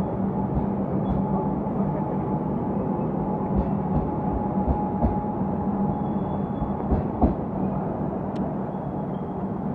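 Electric suburban train running past a station platform: a steady rumble of wheels and running gear with a thin steady whine, and several sharp clacks as wheels cross rail joints, the loudest about seven seconds in.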